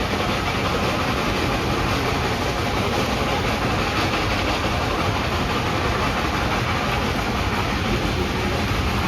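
Steady rumble and rattle of a moving train, heard from aboard a passenger car.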